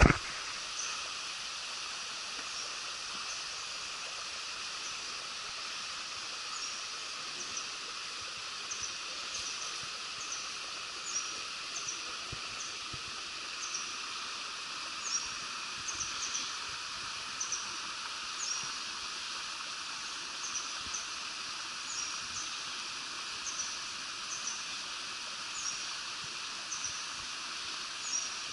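Steady rushing of a forest stream, with a small bird repeatedly giving short high chirps over it from a few seconds in.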